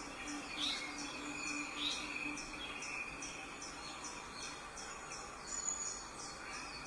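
Small birds chirping in a quick regular series, about three high chirps a second, with a few louder rising notes in the first two seconds, over a steady high insect drone.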